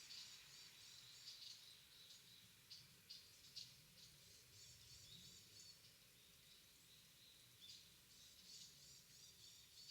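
Small birds calling faintly in a bamboo grove: clusters of quick, high chirps repeating throughout, over a low, steady background hush.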